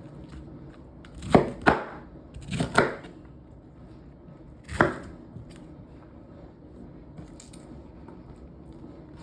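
Kitchen knife chopping on a cutting board: about five sharp, irregular strikes in the first five seconds, then it stops.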